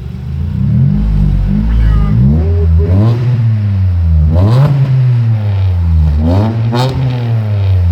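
Mitsubishi Endeavor's 3.8-litre V6 revved in the driveway through a straight-through exhaust: several blips of the throttle, the pitch climbing and falling back each time, about four rises in all.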